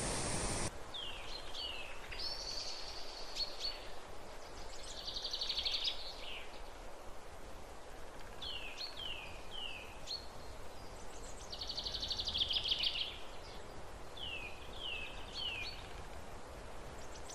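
A rushing-water noise cuts off under a second in, leaving a songbird repeating its song over a faint background. Each phrase is three quick descending slurred whistles and then a rapid buzzy trill.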